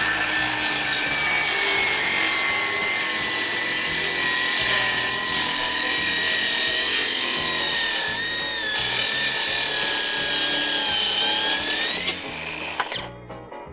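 Cordless power saw running through a cut in wood. Its motor whine sags a little under load, rises as the blade comes free near the end, and the saw is switched off just before the end.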